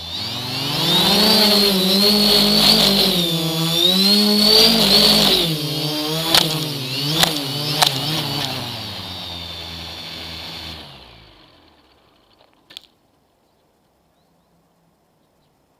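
A motor running with a hum and a high whine, its speed wavering up and down, with three sharp clicks around the middle. It winds down and stops about eleven seconds in.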